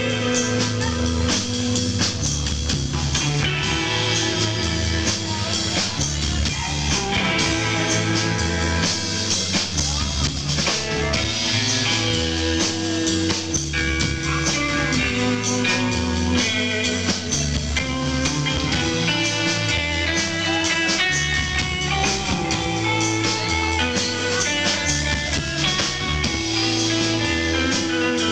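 Rock band playing live in an instrumental stretch: guitar lines over a stepping bass line and a drum kit.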